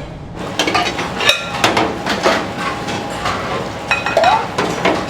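Dishes and utensils clattering at a kitchen counter: a quick, irregular run of clinks and knocks, some ringing briefly, starting about half a second in.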